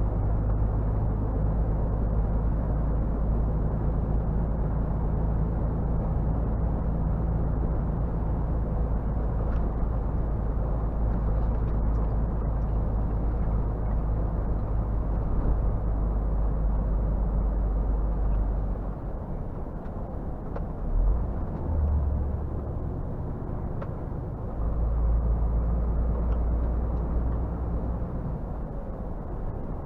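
Scania R450 truck's 13-litre straight-six diesel running under way with a steady low drone. About two-thirds of the way through, the low note drops away for several seconds, as when the driver eases off, then picks up again.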